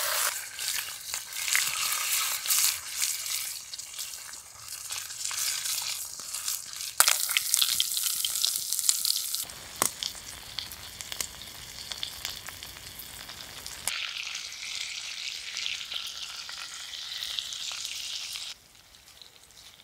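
Bacon and then a whole tiger trout frying in bacon fat in a pan, a crackling sizzle full of small pops. Its strength changes at a few cuts, and it drops away near the end.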